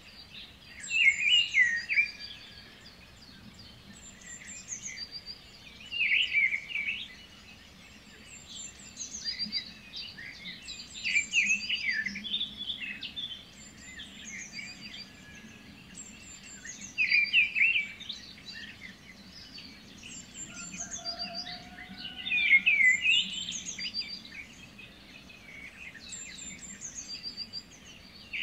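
Birds singing: a loud warbling phrase about every five seconds, with softer, short high chirps repeating in between, over a faint low hum.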